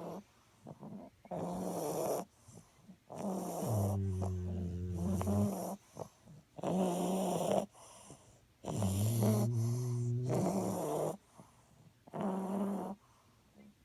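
English bulldog snoring: about five loud snores, each a second or two long. Some are rasping and some carry a low droning tone, with short quiet gaps between breaths.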